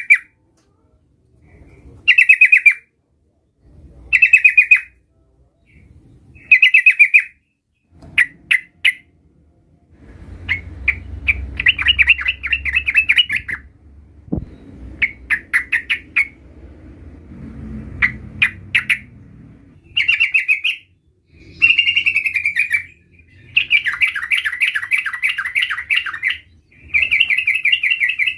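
Yellow-vented bulbul (trucukan) singing bright, bubbly chattering phrases. Short bursts come about every two seconds at first, then longer rolling runs about halfway through and again near the end, with a low background rumble under the later part.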